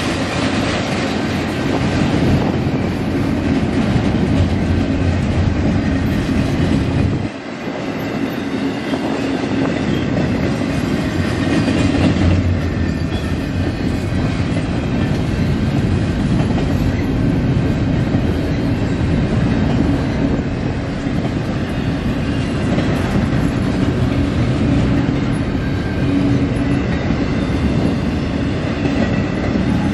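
Double-stack intermodal well cars of a freight train rolling past, a steady loud noise of steel wheels on rail, with a brief dip about seven seconds in.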